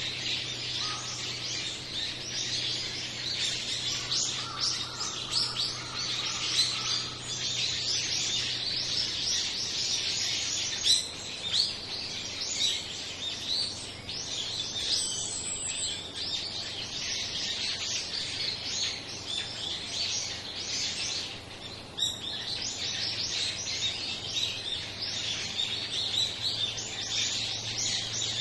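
A flock of small songbirds chirping, many short calls overlapping in a continuous chatter.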